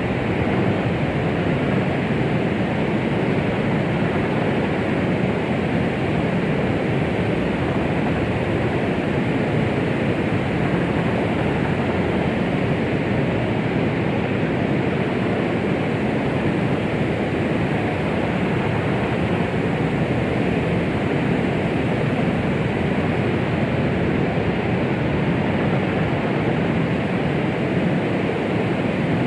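Steady, unchanging noise, deep and rushing and without any pattern. It is a synthetic white-noise track made as a womb-sound imitation to calm a baby.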